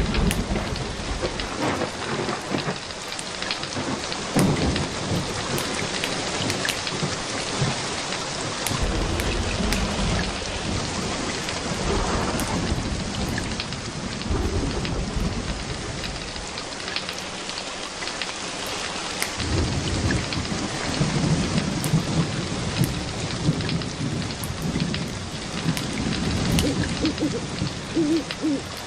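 Steady rain falling, with low rolling rumbles of thunder that swell and fade several times.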